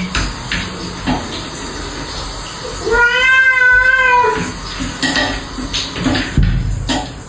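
A cat gives one long, drawn-out meow about three seconds in, rising and then falling, amid handling clatter and a few short low sounds.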